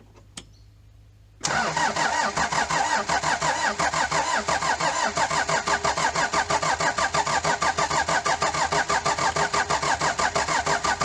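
Starter motor cranking a freshly swapped Daihatsu Fourtrak turbocharged engine, starting about a second and a half in. It turns over in an even rhythmic churn of about five to six compression beats a second and does not fire.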